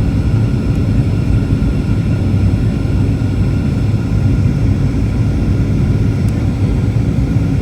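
Boeing 737 airliner heard from inside the passenger cabin in flight: a steady, even low rumble of engines and airflow, with faint steady hums above it.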